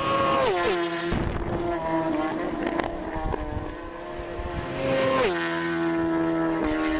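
A high-revving engine held at a steady high pitch, with its pitch dropping sharply twice: once just after the start and again about five seconds in.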